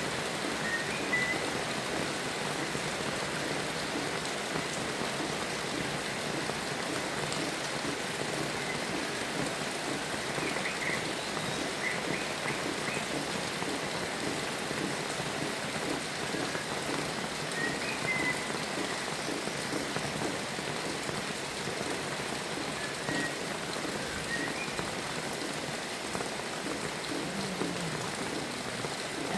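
Steady rain falling, with a few short, faint bird chirps scattered through it.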